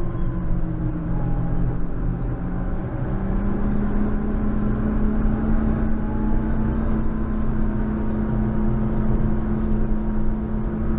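JCB Fastrac 4220 tractor's diesel engine running steadily under load while plowing snow; its note dips slightly about two to three seconds in, then holds level.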